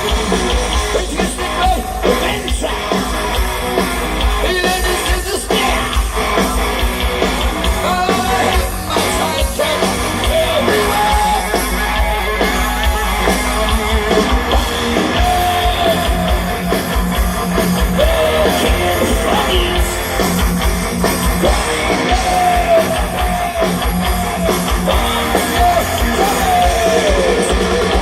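Heavy metal band playing live: distorted electric guitars, bass and drums at full volume, with high lead notes bending up and down in pitch.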